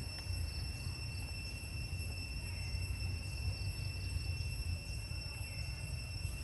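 Steady high-pitched drone of insects, with a low rumble underneath and faint short chirps now and then.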